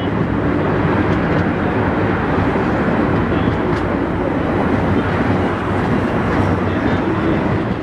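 Steady running noise of a moving passenger train, heard from aboard at an open door or window.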